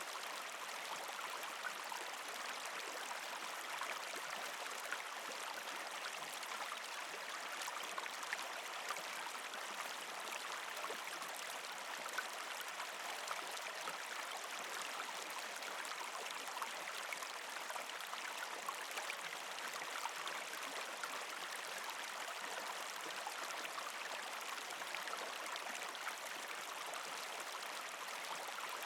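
A small, partially frozen creek flowing steadily, with water gurgling and trickling over rocks, full of small, quick splashes.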